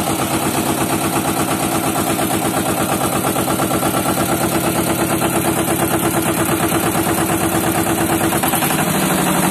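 Road roller's diesel engine running with a rapid, even beat, its tone shifting slightly lower near the end.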